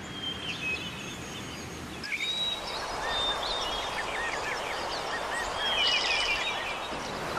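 Several birds chirping and calling over a steady background hiss, with short whistled notes and quick chirps that come in clusters.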